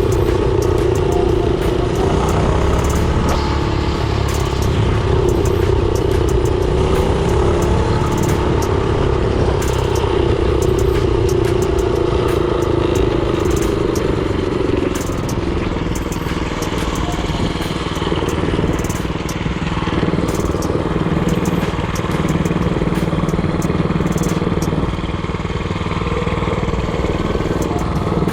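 Predator 224cc single-cylinder four-stroke engine of a mini-bike running under way, heard from the rider's head. Its note drops to a lower pitch about halfway through and stays there, with frequent sharp ticks and rattles over it.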